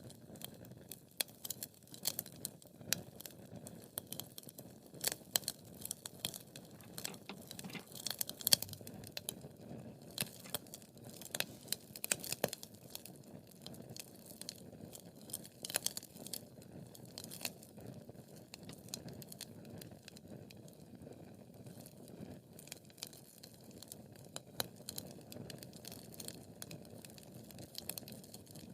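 Wood fire burning, with frequent irregular sharp crackles and pops over a low steady rush of flame.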